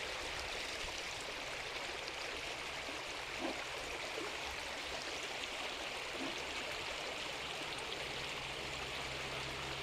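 River water rushing steadily over rocks, a constant even rush.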